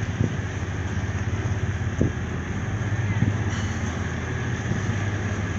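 A steady low engine drone over a haze of outdoor noise, with a few brief knocks.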